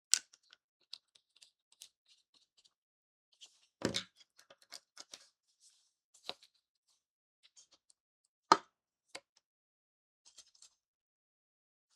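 Sparse light clicks and taps of small items being handled and set down on a tabletop during acrylic paint mixing. The sharpest come right at the start and about eight and a half seconds in, with a short cluster around four seconds.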